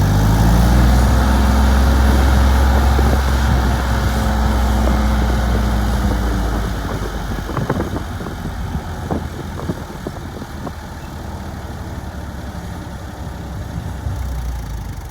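Ford 2000 tractor's gas engine running, loudest for the first six seconds or so, when its deep tone drops away and the sound turns quieter. Several sharp knocks or clatters follow through the second half.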